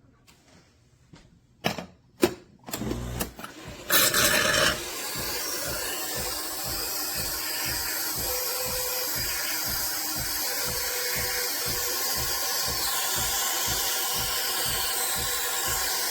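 De'Longhi Eletta Explore automatic espresso machine starting a large latte: a few clicks and knocks, a short louder burst about four seconds in, then a steady hiss over a regular low pulsing about three times a second as the machine runs its cycle.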